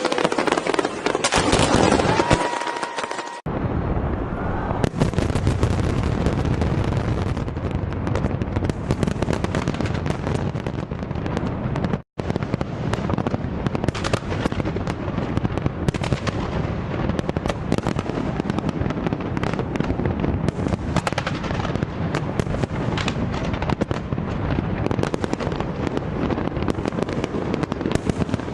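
Fireworks going off in a dense, continuous barrage of rapid bangs and crackling. A short whistle sounds about two seconds in, and the sound breaks off and restarts abruptly twice, at clip changes.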